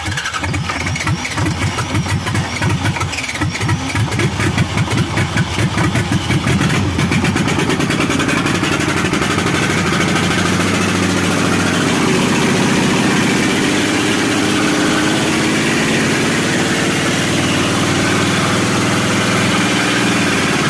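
Rebuilt old Toyota forklift engine starting up: it catches abruptly and fires in strong, uneven pulses for the first several seconds, then settles into a steady, even idle.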